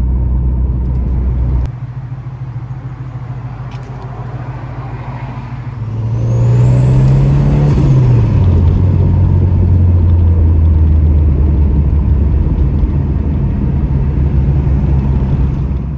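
Ford Escort RS Cosworth's turbocharged four-cylinder engine driving. A steady hum drops in level about two seconds in. Around six seconds in the revs rise with a high whine, then fall at a gear change about eight seconds in and hold steady.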